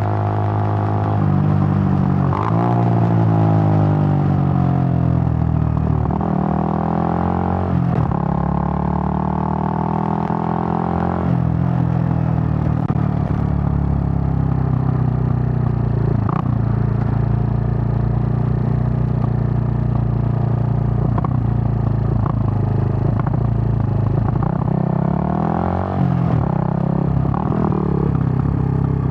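Suzuki GN125's single-cylinder four-stroke engine under way, its note climbing and dropping back several times as it shifts up through the gears, then holding a steady cruising pitch, with a couple more shifts near the end and a few brief knocks.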